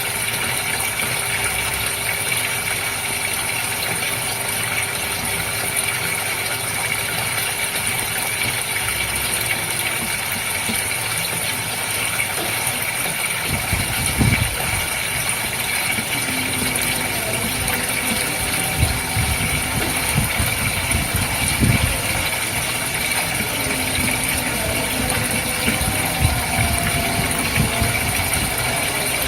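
Goldfish aquarium's water pump running steadily: continuous hiss of moving water over a constant machine hum, with a few soft low bumps from about halfway through.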